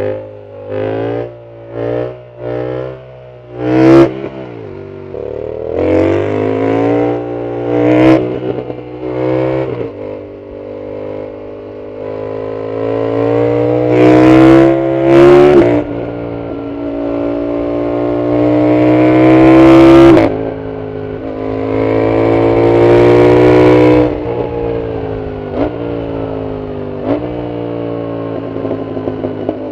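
Yamaha MT-07's 689 cc parallel-twin engine through a full Arrow exhaust, loud: a string of short quick throttle blips in the first few seconds, then accelerating hard through the gears, the pitch climbing and dropping sharply at each of several upshifts.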